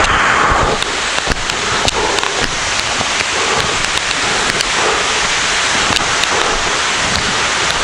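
Waterfall pouring: a loud, steady rush of falling water, with scattered short ticks through it.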